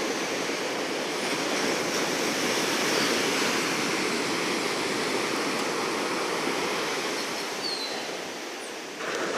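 Rough, churning ocean surf breaking and washing up the beach: a continuous rush of water that swells a little about three seconds in and eases off near the end before building again.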